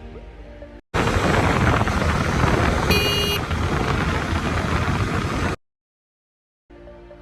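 Loud, steady rush of falling water from a waterfall, cut in for a few seconds between stretches of background electronic music, with a brief high tone in the middle.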